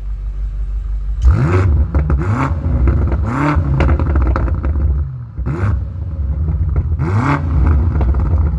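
2020 BMW M8's 4.4-litre twin-turbo V8 (S63) revved while parked: after about a second of idle, a run of about six quick throttle blips, each rising and falling in pitch, then settling back to idle between them. Loud, described as sounding like a beast.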